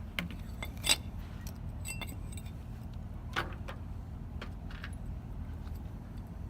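A handful of short metallic clicks and clinks, as of tools and hardware being handled, the loudest about a second in, over a steady low rumble.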